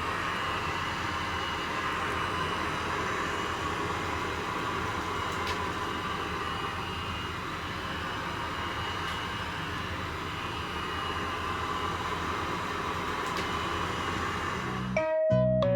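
Robot vacuum cleaner running: a steady whir with a faint high whine. Keyboard music comes in near the end.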